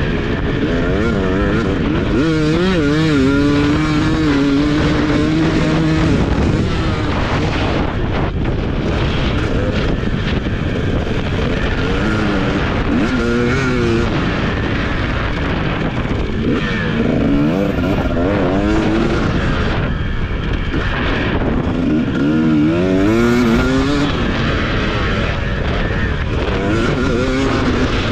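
TC250 motocross bike engine running hard, its revs repeatedly rising and falling through the gears and held high for a few seconds near the start, over heavy wind and riding noise.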